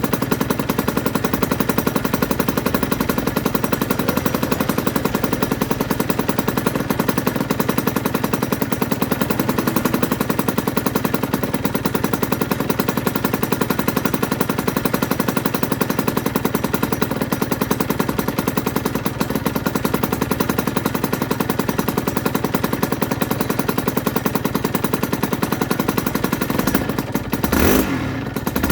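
Aprilia RS125's single-cylinder two-stroke engine idling steadily with a fast, even popping exhaust beat, then revved briefly near the end.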